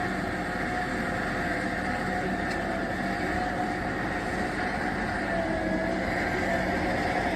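Loaded logging truck's engine running steadily as it hauls timber over rough ground, with a whine that wavers slightly in pitch above the engine note.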